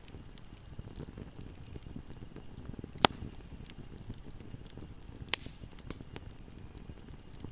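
Campfire burning with a steady low rumble and scattered small crackles, broken by two sharp, loud pops from the burning wood, one about three seconds in and one a little over five seconds in.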